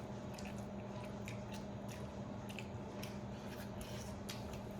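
Eating sounds from grilled chicken being chewed and torn apart by hand: many short, irregular clicks and crackles over a steady low hum.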